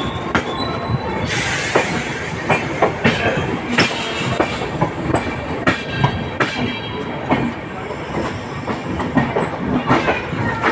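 Goa Express passenger train running on the rails: irregular clicking and clacking of wheels over rail joints, with a faint wheel squeal and a brief hiss about a second in.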